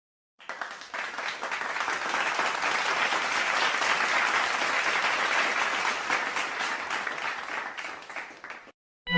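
Crowd applause: many people clapping, starting about half a second in, building up and then tapering off to stop just before the end.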